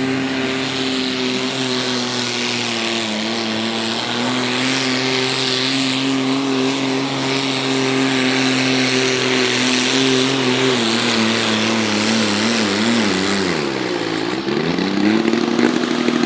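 Diesel garden tractor engine running at full throttle under load, pulling a weight sled. Its pitch holds steady for about ten seconds, then wavers, dips sharply about three-quarters of the way in and climbs back up near the end.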